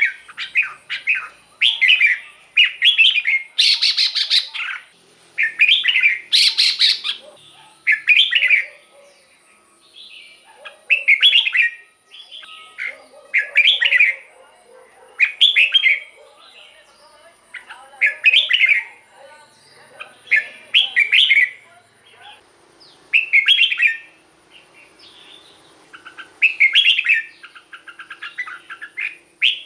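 Red-whiskered bulbul singing: short, bright chirping phrases repeated every one to two seconds, coming closer together in the first few seconds.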